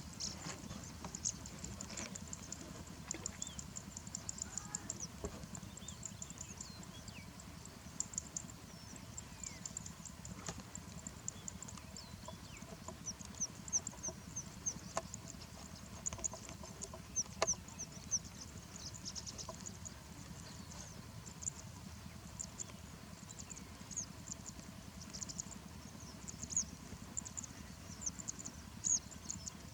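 Small birds chirping: rapid, thin, high-pitched chirps in bouts, with a few sharp ticks, over a steady low background rumble.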